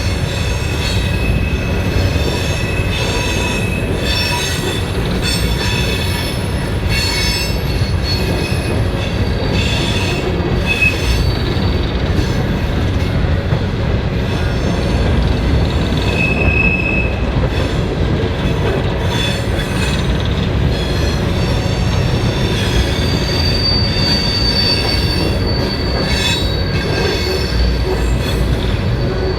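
Train rolling past close by: a steady heavy rumble of the cars, with the wheels squealing in short high tones, repeated clicks over the rail joints, and a high squeal that holds through the last several seconds.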